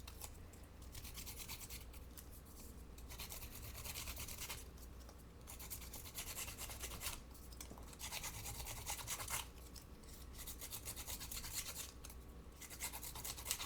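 Paper distressing tool scraping the edge of a thin strip of paper in rapid back-and-forth strokes, coming in several short runs with brief pauses between them.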